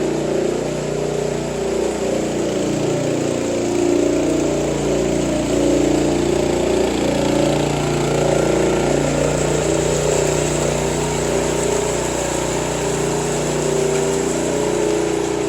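An engine running steadily at an even speed, with no break.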